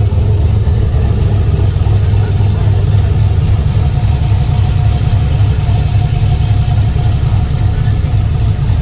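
Car engine idling with a steady, loud low rumble.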